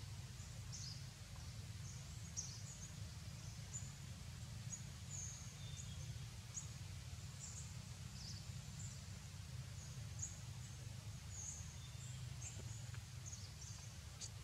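Forest ambience: small birds chirping in many short, high notes scattered throughout, over a steady low rumble.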